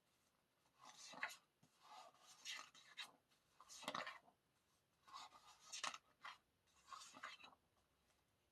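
Faint rustling of paper as the pages of an album photobook are handled and turned: a string of short brushing sounds, about eight of them.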